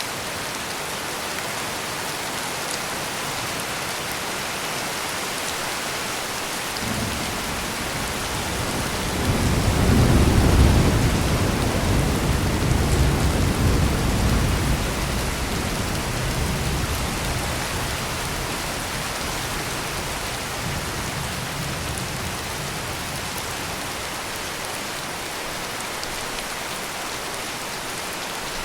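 Heavy rain falling steadily, with a roll of thunder that starts about a quarter of the way in, peaks a few seconds later as the loudest part, and rumbles away slowly over the second half.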